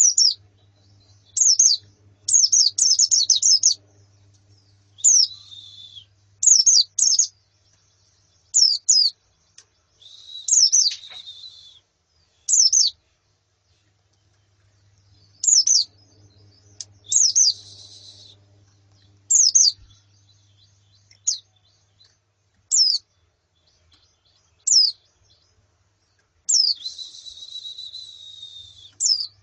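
White-eyes (pleci), female and flock, calling: short high downslurred chirps in quick groups of two to four, broken by a few longer buzzy trills lasting a second or two.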